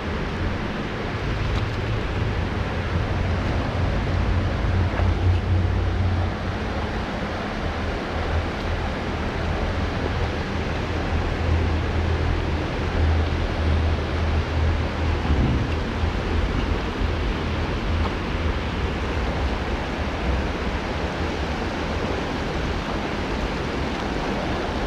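Rushing mountain river water: a steady, unbroken hiss of flowing current with a wavering low rumble underneath.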